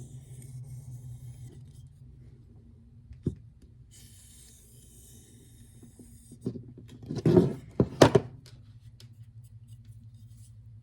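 Steel knife edge drawn along a diamond-loaded leather strop in long, soft scraping strokes, each about two seconds. A few loud knocks and thumps of handling follow about seven to eight seconds in, over a steady low hum.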